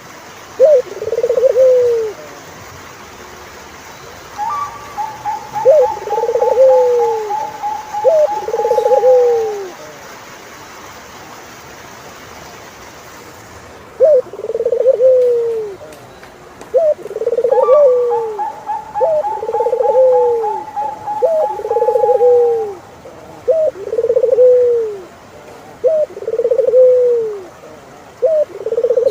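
Turtledoves cooing: a run of low, arched coos, one every second or two, with a long, rapid, slightly falling trill higher up laid over them twice, each lasting about five seconds.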